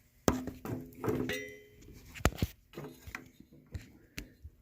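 Scattered light clicks, knocks and metallic clinks from handling tools and parts, a few of them ringing briefly in the first second or so.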